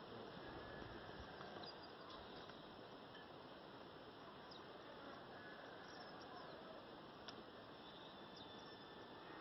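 Faint outdoor ambience: a steady soft hiss with a few faint, brief high chirps scattered through.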